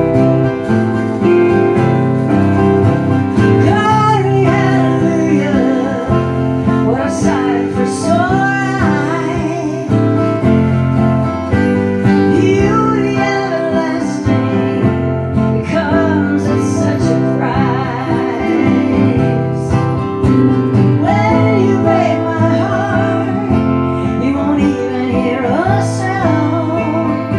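Live acoustic guitar-accompanied song with a woman singing the melody in phrases, with short instrumental gaps between the sung lines.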